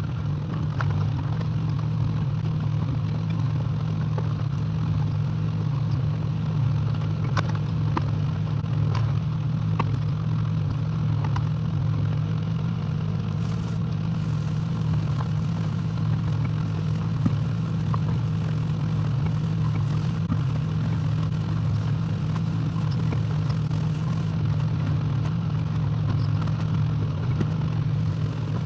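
Excavator engine running steadily, with scattered light clicks and clatter over it.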